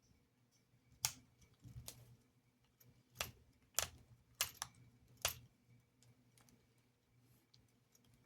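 Small parts and tools being handled while a model locomotive is reassembled: about half a dozen sharp light clicks and taps, irregularly spaced, with fainter ticks between them.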